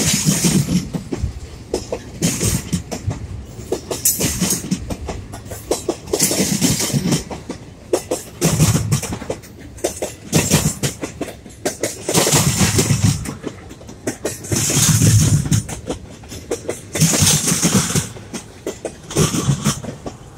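Intermodal freight train rolling past at close range, its wheels clacking over a rail joint in loud clusters about every two seconds as each set of trucks crosses it, over a steady rumble. The rail is moving up and down under the wheels, which the owner takes as a sign that it needs replacing.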